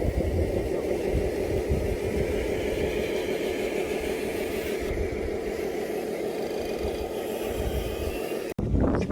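Radio-controlled model truck running with a steady motor and gear drone, which cuts off abruptly near the end. Wind on the microphone follows the cut.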